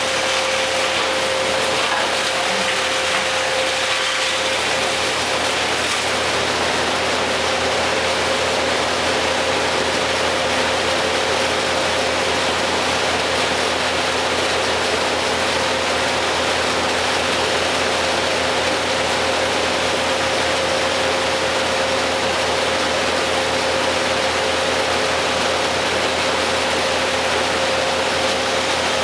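An engine running steadily at a constant speed, a continuous hum with a steady whine over it and no changes.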